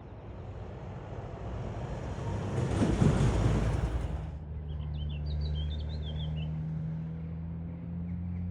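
A train passing close by at speed, its rush building to a peak about three seconds in and cutting off sharply a second later, leaving a steady low engine drone. A bird chirps a few times midway.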